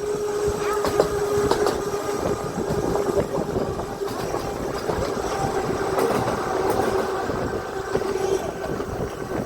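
Seaton Tramway electric tram running along its narrow-gauge track: a steady hum from the drive with wheel rumble and scattered clicks from the rails.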